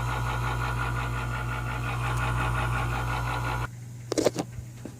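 Kenmore dehumidifier running with a steady hum, its fan motor turning again on a freshly replaced thermal fuse. The hum cuts off suddenly about three and a half seconds in, followed by a couple of short knocks.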